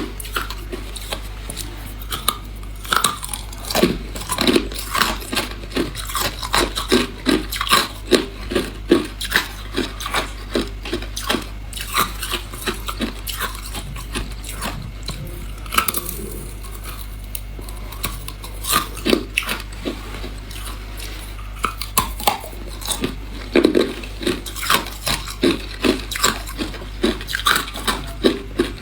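A person biting and chewing hard clear ice: an irregular, rapid run of sharp crunches and cracks, with a few brief pauses.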